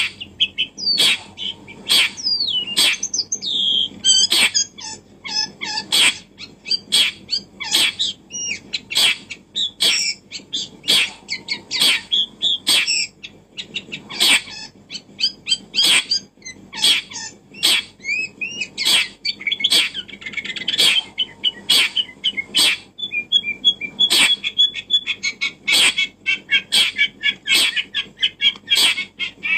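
Birds chirping and twittering, with a sharp click repeating about once a second.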